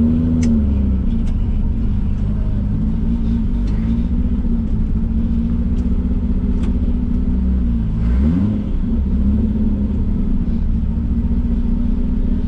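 Datsun 240K race car's straight-six engine running at fairly steady revs, with brief dips in pitch about half a second in and again around eight seconds in, as on a lift or gear change.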